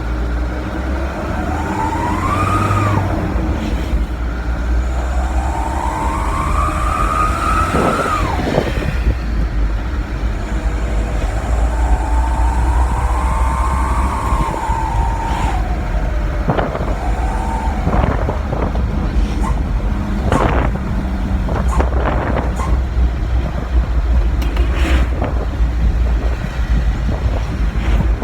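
Truck engine running through a homemade 'srigala' (wolf) exhaust made from a used Mitsubishi Canter oil filter, howling in three long rising-then-falling wails over a deep low rumble. In the second half come a series of short sharp cracks.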